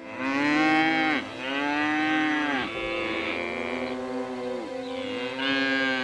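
Livestock calling: four long, drawn-out calls in a row, each a second or more and dropping in pitch as it ends.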